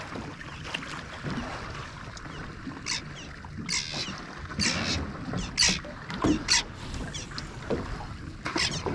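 Motorboat under way, with a steady low engine and water rumble. Several short, sharp splashes of water break over it from about three seconds in.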